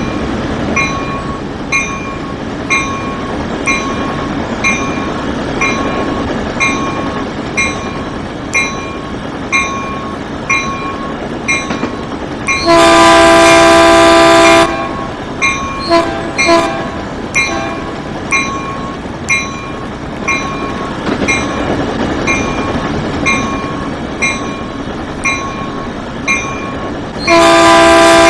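Train bell ringing steadily, about one strike every 0.6 seconds, over running train noise. A loud multi-tone train horn sounds a long blast about halfway through, then two short toots, then another long blast begins near the end.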